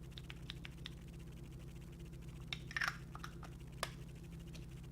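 Faint light clicks and taps from a foundation bottle being handled, a few at first and a small cluster about two and a half seconds in, then one sharper click, over a steady low hum.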